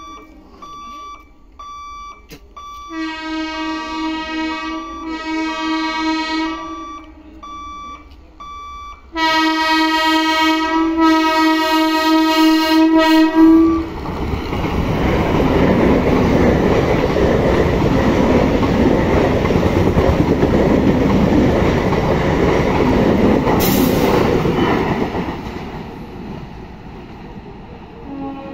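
EMU electric suburban train sounding its horn in long blasts, then passing close by with a loud, steady rumble and clatter of wheels on rail that fades away near the end.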